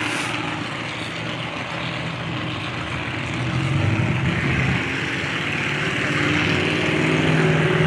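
Engines of compact demolition derby cars running at idle, the engine note rising briefly about four seconds in and again near the end.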